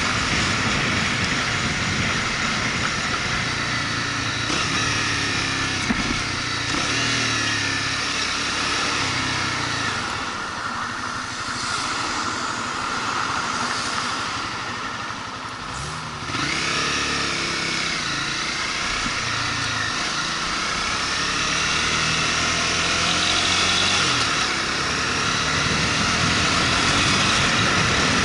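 Motorcycle engine running under way, with rushing wind noise; the engine note rises and falls with the throttle. It eases off for a few seconds past the middle, then picks up again suddenly about two-thirds of the way in.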